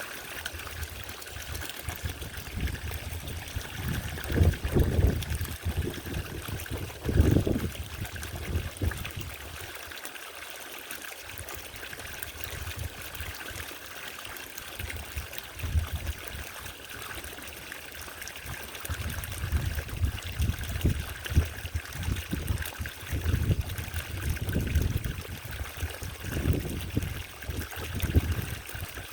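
Small solar-powered garden fountain trickling and splashing steadily. Irregular low rumbles come about four and seven seconds in, and again through the second half.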